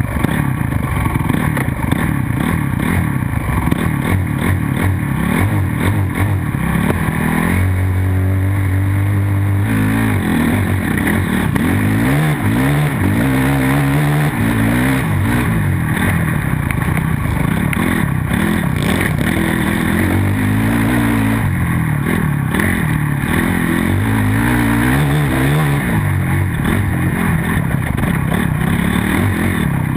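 Motocross bike engine revving hard, its pitch climbing and dropping again and again as the rider works the throttle and gears around the track.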